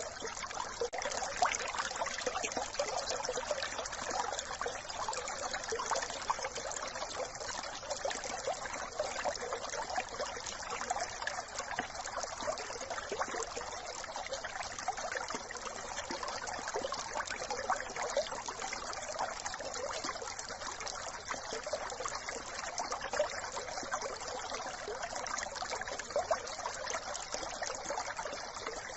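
Small brook trickling and babbling steadily.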